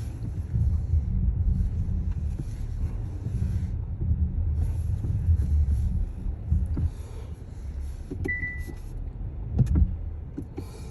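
Car driving, heard from inside the cabin: a steady low rumble of engine and road noise, with a hiss that comes and goes. A short high beep sounds about eight seconds in, and a few clicks follow near the end.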